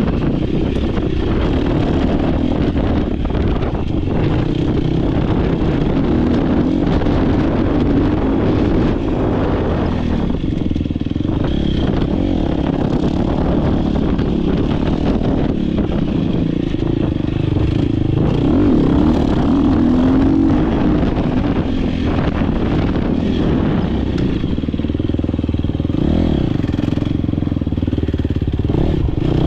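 Dirt bike engine revving up and down as the bike is ridden hard, with frequent knocks and rattles from the bike over rough ground.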